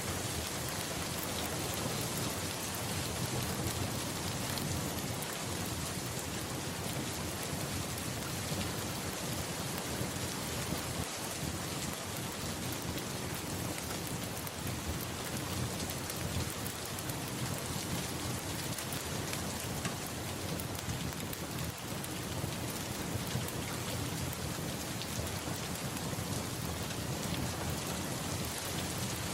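Steady heavy rain falling, with a low rumble of thunder underneath and no sharp thunderclaps.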